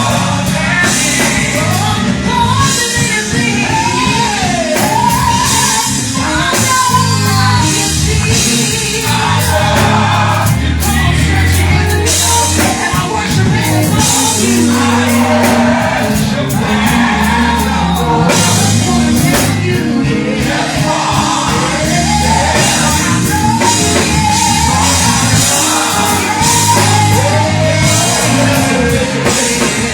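Gospel music with a band: a sung melody over bass, drums and cymbals, loud and continuous throughout.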